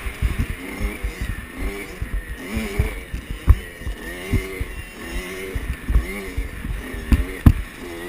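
Kawasaki KX65 two-stroke dirt bike engine revving up and down over and over, with heavy low thudding underneath. Two sharp knocks stand out, about a third of the way in and near the end.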